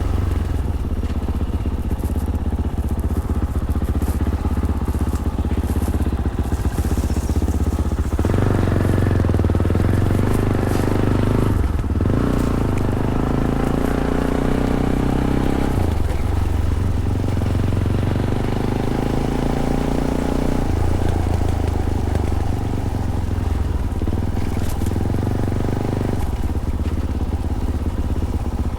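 Fantic Caballero 500's single-cylinder engine through its stock Arrow exhaust, riding along with the throttle opening and closing. The engine note shifts several times, every four or five seconds.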